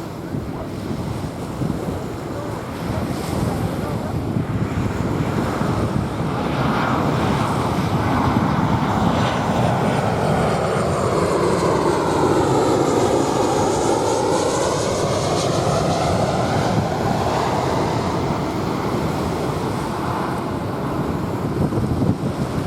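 Jet airliner passing overhead, its engine noise swelling to a peak about halfway through and then easing, with a sweeping whoosh in its tone as it goes by. Waves wash on the sand and wind buffets the microphone underneath.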